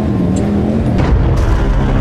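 Motorcycle engine running under throttle, its pitch rising slightly and then wavering, with wind and road noise, over faint background music.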